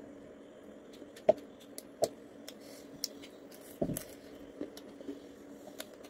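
Close-up eating sounds of roasted pork being chewed: sharp wet clicks and lip smacks, the loudest about a second in, and a short cluster near the middle as a piece of pork is bitten, over a faint steady hum.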